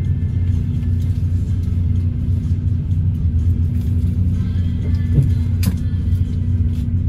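Steady low rumble of a Philippine Rabbit bus on the move, heard from inside the cabin, with a single short knock or rattle about five and a half seconds in.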